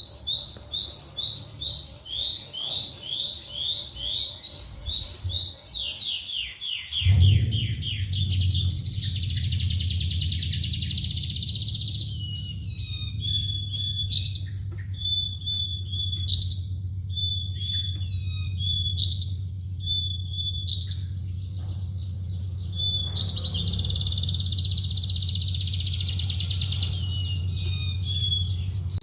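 A lark singing: a run of quick rising notes, then a buzzy trill, clear whistled notes and another trill. About seven seconds in, a steady low hum starts beneath the song.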